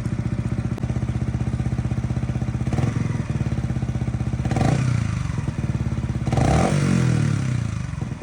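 Yamaha MT125's single-cylinder four-stroke engine idling with a steady pulsing beat, with the stock exhaust baffle still fitted. It is blipped three times: a small one about three seconds in, then two sharper revs that fall back to idle.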